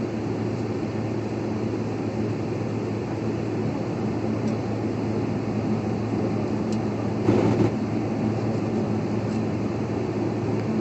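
Airliner cabin noise on the ground while holding for takeoff: a steady drone from the idling engines and cabin air system, with a low hum underneath. A brief louder rustle or knock about seven seconds in.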